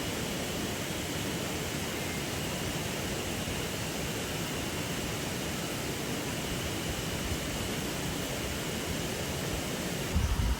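River water flowing, a steady rushing noise. A brief low rumble of wind on the microphone near the end.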